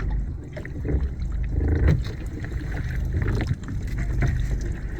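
Water sloshing and splashing around a small fishing boat at sea, over a steady low rumble.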